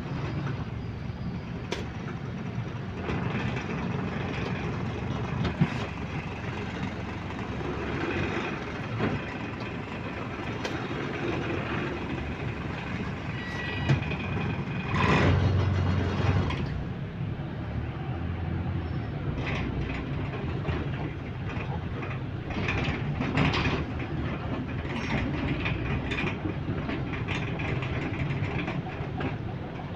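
A bus in service, heard from inside: the engine runs steadily under a continuous low rumble, with scattered rattles and clicks. About halfway through there is a louder surge lasting a second or two.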